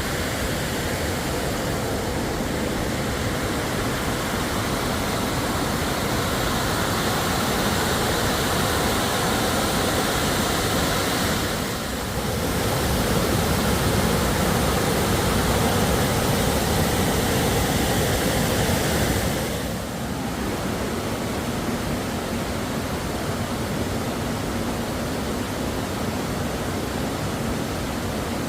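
Steady rush of water pouring over High Falls Dam, running high after Hurricane Helene. The sound dips briefly about twelve seconds in and settles a little quieter just before twenty seconds.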